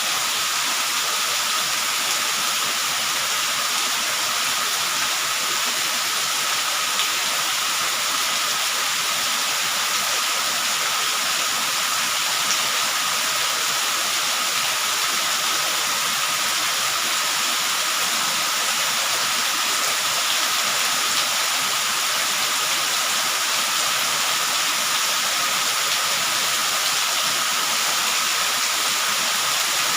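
Steady rain falling, a dense even hiss with no letup. A faint steady high tone runs beneath it.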